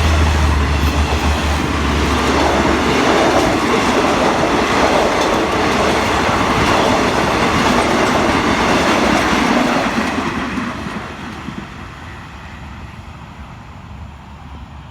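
Passenger train carriages rolling past, wheels clattering over the rail joints with a low hum at first; the sound fades away after about ten seconds as the train moves off.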